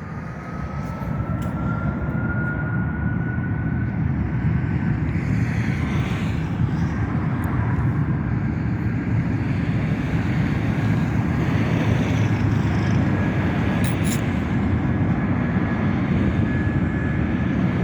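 Boeing 757 twin-engine jet taking off at full thrust: a loud, steady, deep rumble that builds over the first couple of seconds and then holds, with a faint engine whine rising slowly in pitch.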